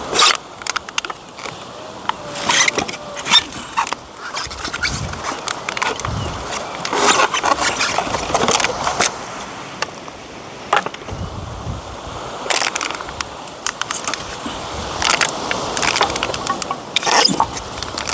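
Wood being pulled at and broken: irregular cracks, snaps and knocks, some in quick clusters.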